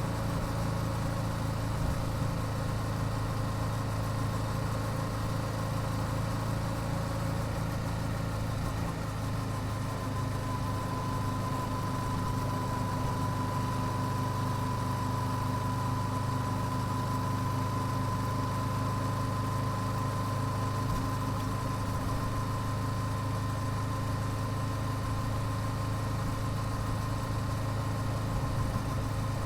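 Yamaha YZF-R7's 689 cc parallel-twin engine, stock exhaust, running steadily at a low, even engine speed with no revving. A thin steady high tone comes in about ten seconds in.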